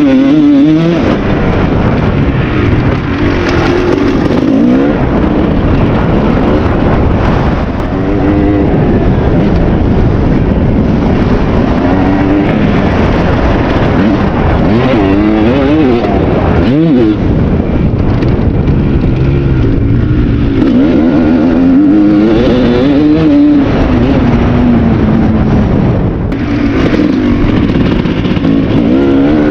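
Kawasaki KX250 single-cylinder two-stroke dirt bike engine, ridden hard: its pitch climbs and falls again and again as the throttle is opened and shut.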